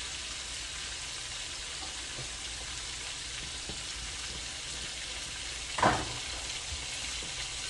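Food sizzling steadily as it fries in a hot pan, with a brief loud clatter about six seconds in.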